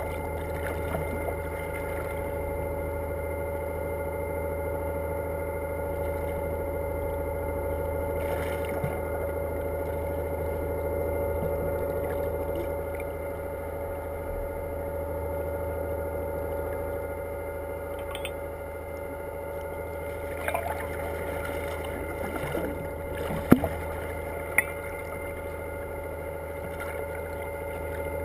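Boat engine running steadily with an even hum, joined by a couple of short sharp knocks near the end.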